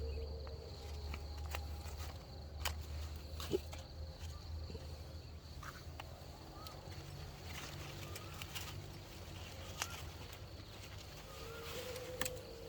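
Outdoor farm ambience: a steady high insect drone, a few short bird chirps, and scattered light clicks and rustles of handling.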